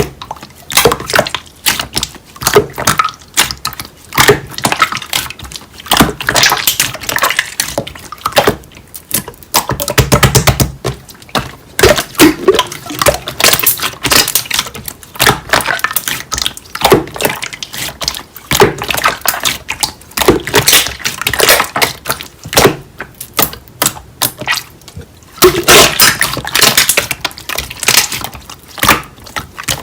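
Slime being squished and worked by hand: irregular runs of sticky, wet clicks and crackling pops, coming in short bursts.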